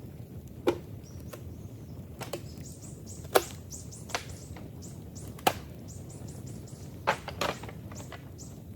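Old bamboo cracking and knocking: about seven sharp woody cracks at irregular intervals, the loudest a little over three seconds in. A run of quick, high, repeated chirps starts about two and a half seconds in.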